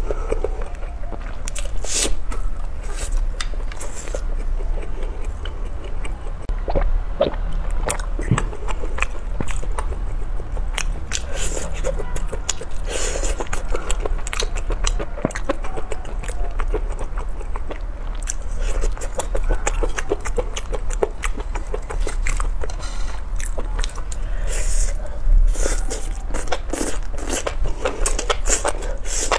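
Close-miked eating of spicy fried food skewers: biting meat off wooden skewers and chewing with the mouth open, wet clicks and crunches coming thick and irregular. A steady low hum runs underneath.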